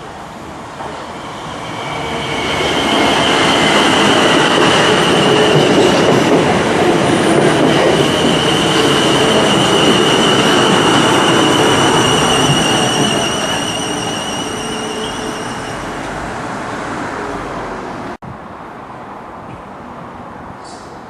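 Passenger train passing close by: a loud rumble of wheels on rail with a steady high whine on top, building about two seconds in, then fading away.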